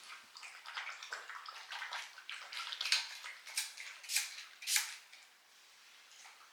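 Akita puppy lapping water from a bowl: quick, irregular wet laps and splashes that stop about five seconds in.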